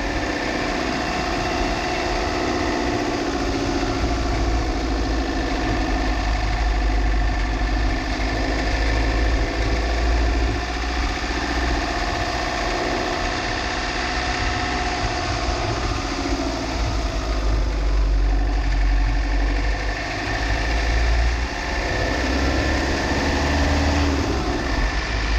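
A car driving, heard from a GoPro fixed to its body: steady engine and road noise under a heavy low rumble, the engine's pitch drifting gently up and down.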